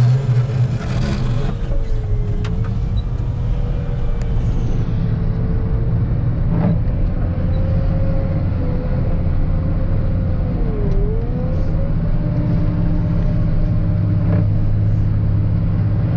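Wheel loader's diesel engine running steadily under load while pushing snow, with a thin wavering whine that dips briefly about two-thirds of the way through. Two short knocks come a few seconds apart.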